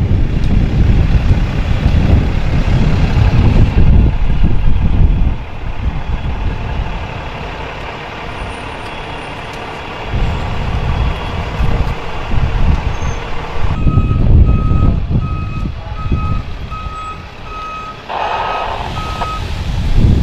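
Wind buffeting the microphone in strong gusts. About fourteen seconds in, a vehicle's reversing alarm starts: a regular run of short high beeps, about one and a half a second, lasting some six seconds.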